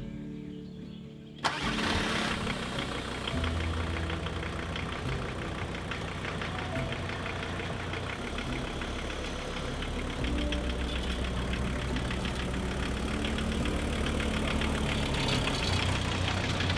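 A van's engine starts with a sudden burst about a second and a half in, then runs steadily at idle with an even, fast firing rhythm.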